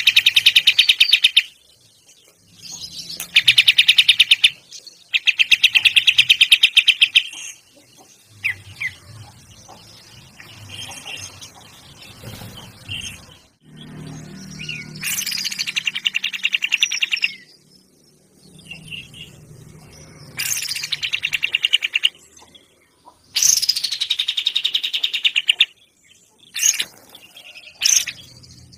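A bird singing in loud, rapid trills of about two seconds each, repeated several times with short pauses. Some trills open with a quick falling sweep, and softer chirps fill the gaps.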